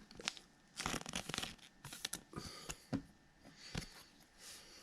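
Trading cards being handled and sorted by hand: light clicks and rustling as cards slide and are set down, with a denser rustle about a second in and a couple of sharper clicks near the end.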